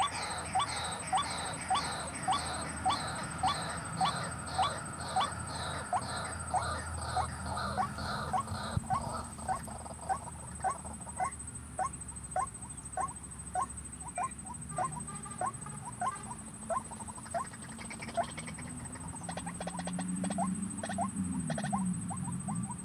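White-breasted waterhen calling: a steady series of short, sharply rising calls, about two a second, strong for the first half and fainter after. A steady high-pitched whine runs underneath, and a low drone rises near the end.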